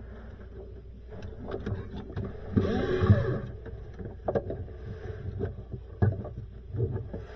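Wires and plastic plug connectors being handled, with scattered small clicks and rustles over a steady low hum, and a brief rising-and-falling tone about three seconds in.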